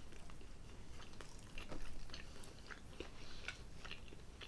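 Two people chewing a chicken bake and a hot dog: soft, scattered mouth clicks and smacks, a little louder about a second and a half in.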